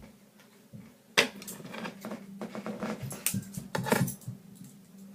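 Small hard objects being handled on a work surface: a sharp knock about a second in, then irregular clattering, clicking and rustling.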